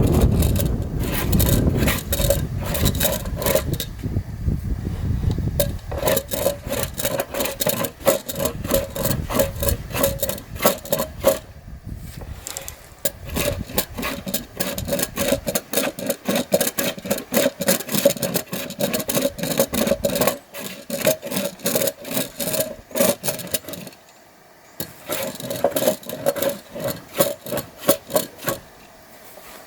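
A hand tool working wood in rapid, repeated scraping strokes, with short breaks about twelve seconds in and again about twenty-four seconds in.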